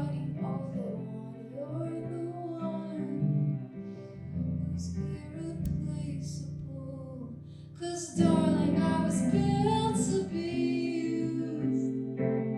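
A live song: a singing voice over plucked guitar accompaniment. It grows noticeably louder about eight seconds in.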